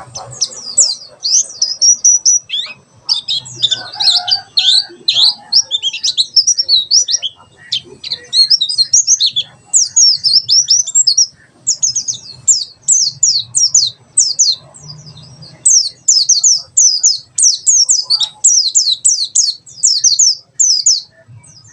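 White-eye (pleci) singing its fast 'tembakan' song: bursts of rapid, sharp, high notes that slide downward, each burst a second or two long with short breaks between.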